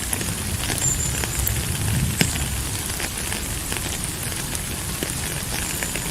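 Steady rain falling: an even hiss with a low rumble and many individual drops ticking, one sharper tap about two seconds in.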